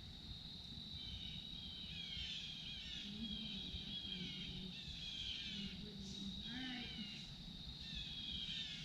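Birds calling in quick, falling chirps over a steady high-pitched insect drone, with a low rumble underneath.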